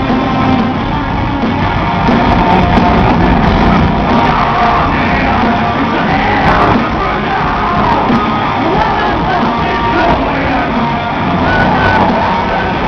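Live rock band playing with distorted guitars, bass and drums and a shouted, sung vocal, heard loud and echoing through a big hall, recorded from the crowd.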